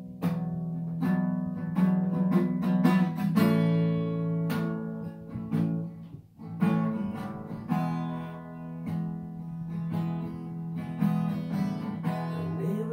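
Acoustic guitar played as a song introduction, a mix of picked notes and strums, with a short lull about six seconds in.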